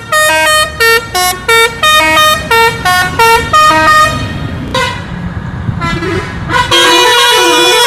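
A telolet-style musical bus horn plays a quick tune of short notes at changing pitches, about three a second. After a brief break it sounds a long held chord with a warbling lower tone.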